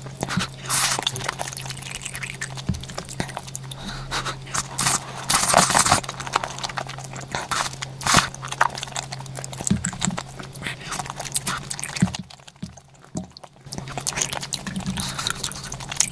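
Close-miked eating sounds of someone chewing and biting into braised chicken with aged kimchi, with wet mouth noises and irregular sharp clicks over a steady low hum. The sound briefly drops almost to nothing about twelve seconds in.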